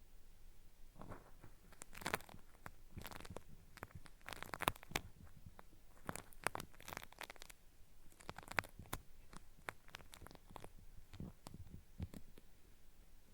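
Cotton swab rubbing and scraping at the ear of a binaural microphone, making an irregular dry crackling meant to sound like earwax being peeled away.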